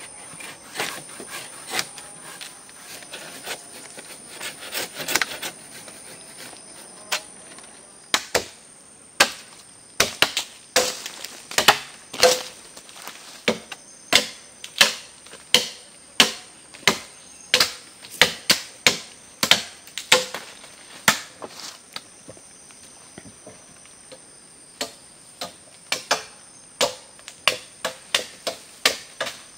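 Hammer driving nails into a wooden shelter frame: a run of sharp strikes about one a second, with quicker, lighter taps near the end.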